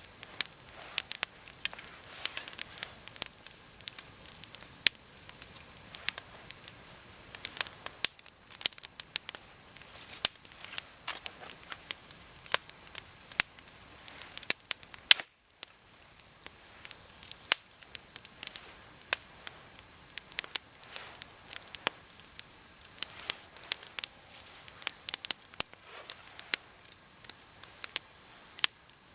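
Campfire of wet, frozen deadwood and branches burning, crackling with many irregular sharp pops over a soft hiss, with a brief break about halfway through.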